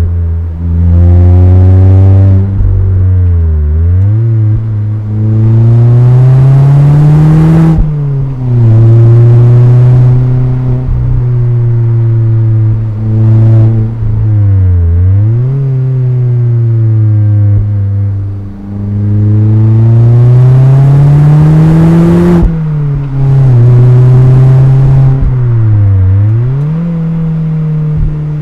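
Mazda MX-5's inline-four engine and exhaust under hard driving. The revs climb in long pulls and drop sharply between them, with a couple of quick dips and recoveries.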